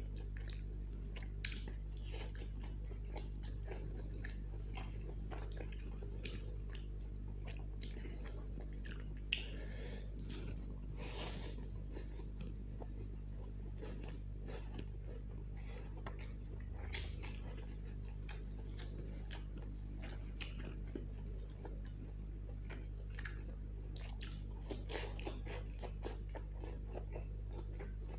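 Close-miked chewing and mouth sounds of a man eating chicken chow mein and roasted long green chillies by hand: wet chewing, lip smacks and small crunches, with a longer rush of mouth noise about eleven seconds in. A steady low hum runs underneath.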